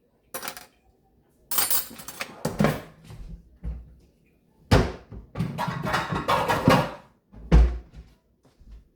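Kitchen clatter: dishes and pans knocking together as they are handled, with two heavier thunks about five and seven and a half seconds in.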